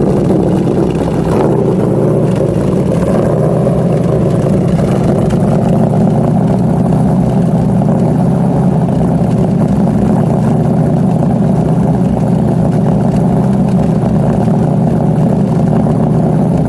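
A 383-cubic-inch stroker V8 in a 1932 Ford three-window hot rod, idling steadily just after being fired up, heard loud at its twin exhaust tips.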